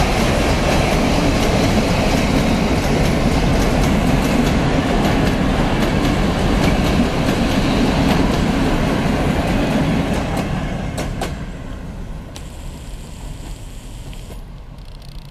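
Freight train of Talbot covered hopper wagons rolling past at close range: a steady rumble of steel wheels on rail with rapid wheel clatter over the joints. The sound drops to a quieter level about eleven seconds in.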